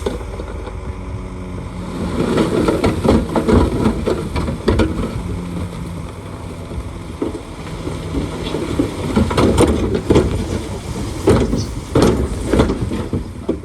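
Bulldozer diesel engine running steadily, then working harder from about two seconds in, with rough, uneven noise and repeated sharp metallic clanks from the tracks and blade as it pushes fill.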